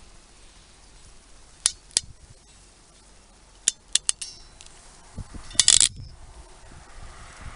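Sharp metallic clicks from a hand tool being worked: two single clicks, then three or four in quick succession, and near the end a louder cluster of clicks with dull knocks.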